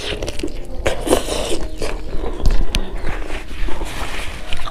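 Close-up eating sounds: biting and chewing pieces of pork curry, with wet mouth smacks and sharp clicks.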